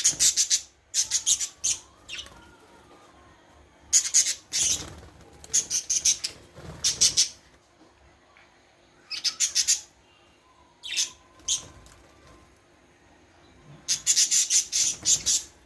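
Small parrots chirping in clusters of rapid, high-pitched notes, with a short quiet gap between clusters; the longest run of chirps comes near the end.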